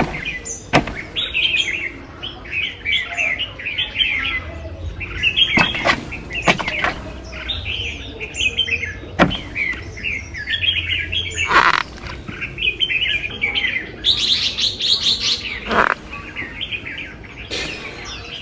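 Birds chirping in a dense, continuous stream of short, high chirps, with several sharp knocks spread through it.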